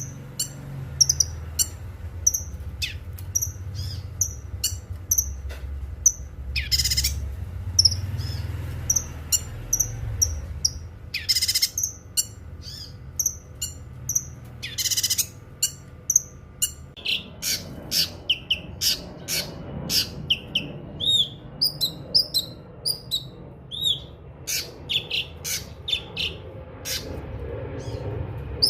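Cucak kinoi singing: a steady run of short, high chirps and tweets, broken by three harsh, rasping bursts in the first half, and turning busier and more varied after the middle.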